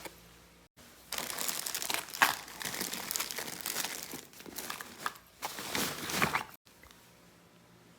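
Crinkling and rustling, like something being crumpled and handled, lasting about five seconds and stopping suddenly.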